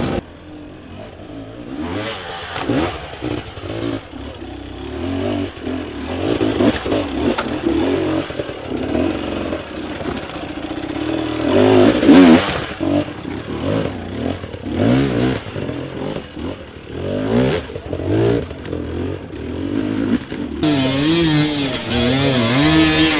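Dirt bike engines revving hard, pitch rising and falling repeatedly as riders work the throttle, loudest about halfway through, with a quickly wavering rev near the end.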